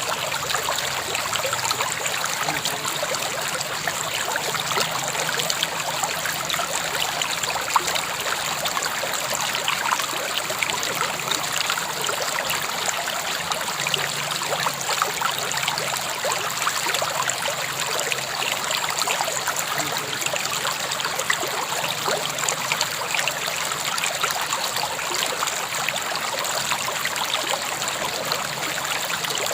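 River water flowing and babbling steadily over stones, an even rushing with fine splashy crackle.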